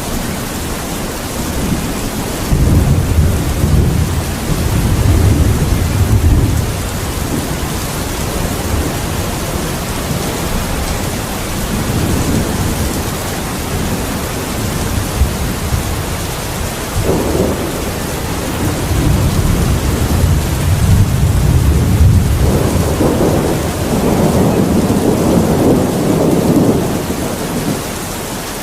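Steady heavy rain hissing, with thunder rolling low through it. One long rumble comes a couple of seconds in and lasts about five seconds, and a longer one builds about two-thirds of the way through.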